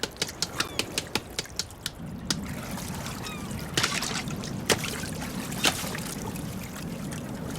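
Sea otter hammering a clam against a stone on its chest: a quick run of sharp knocks, about six a second, for the first two seconds. Then water lapping, with a few single knocks.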